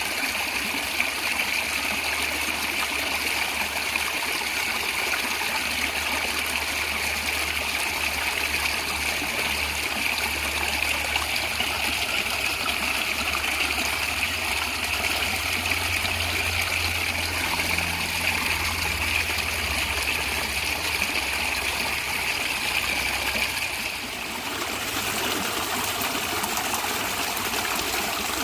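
A natural stream gurgling and trickling steadily. The sound shifts abruptly about three-quarters of the way through, dipping briefly and then coming back brighter, with less low rumble.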